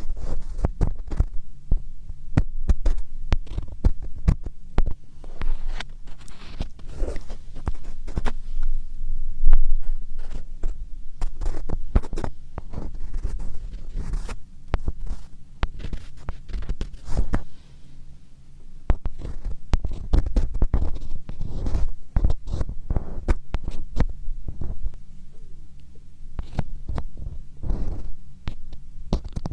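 Close-up ASMR scratching on a microphone: dense, irregular crackling scratches with dull low thumps from contact with the mic.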